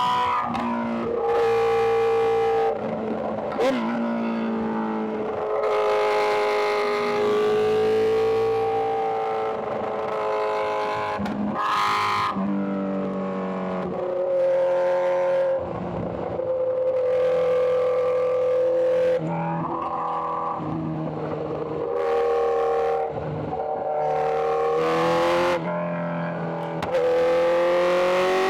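Inline-four sport bike engine running at high revs on the highway, its note held and slowly rising, then changing pitch with a short break every few seconds.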